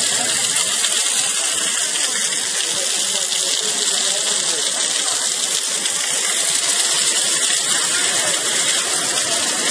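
Heavy rain and running floodwater: a loud, steady hiss that doesn't let up.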